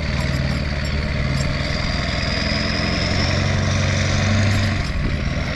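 Vehicle engine running under load as it pulls a broken-down utility vehicle on a tow chain, the revs climbing about halfway through and easing off near the end.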